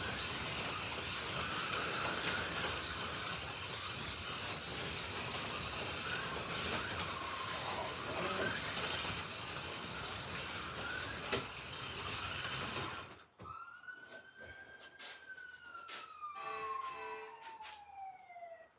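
Slot cars running on the track with a dense whirring, which cuts off abruptly about 13 seconds in. A slow falling electronic tone, like a siren winding down, follows, with a short chord of steady tones near the end.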